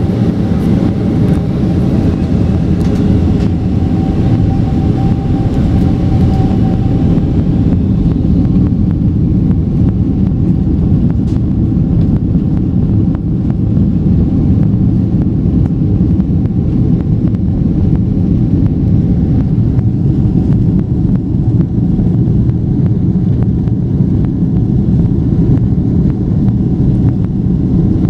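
Boeing 767 jet noise: a loud, steady low rumble of the engines. A higher steady tone and hiss fade away over the first eight seconds or so.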